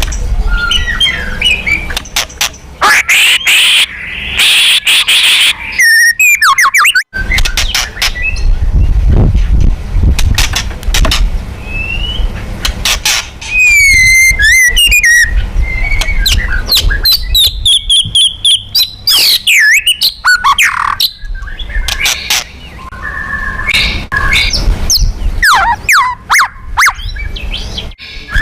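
White-rumped shama singing a long, varied song of loud whistles, fast trills and sharp clicking notes.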